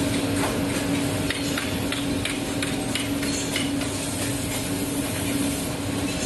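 Workshop machinery running with a steady hum, with scattered sharp clicks and ticks over the first few seconds.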